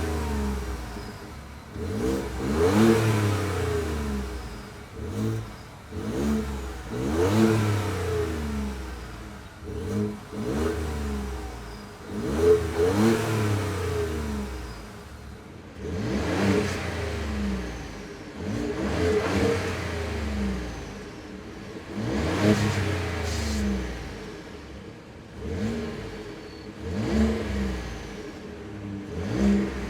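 Stock exhaust of a 2015-or-newer Ford F-150 as the engine is revved again and again. Each rev rises in pitch and falls back, about every two to three seconds.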